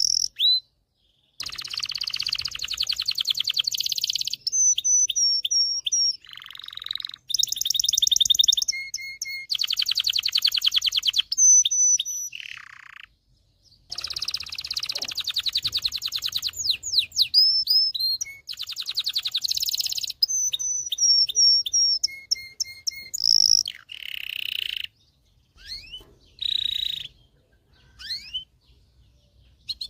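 Domestic canary singing: phrase after phrase of rapid rolling trills, clear whistled notes and sliding chirps, with short pauses between phrases.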